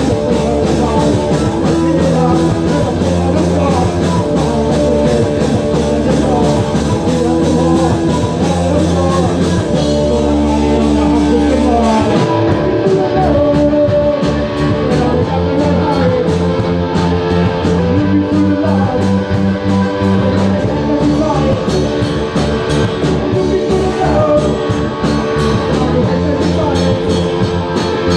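Live rock band playing a song: electric guitar, bass and drum kit, with singing. About twelve seconds in, the held bass notes give way to a choppier, stop-start rhythm.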